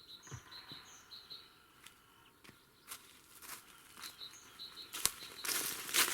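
Small birds chirping in short, repeated high calls, with footsteps crunching over forest litter starting about five seconds in.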